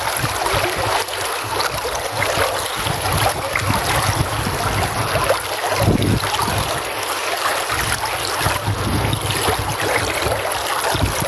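Running water, a steady rush with no pauses, with some low wind rumble on the microphone.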